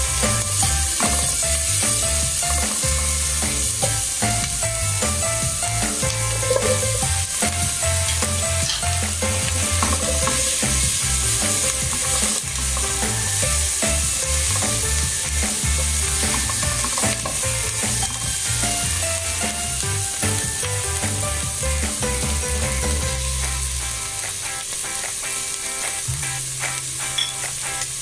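Chopped onion, ginger, garlic and okra sautéing in oil in a pan: a steady sizzle, with the scrape of a spatula stirring them.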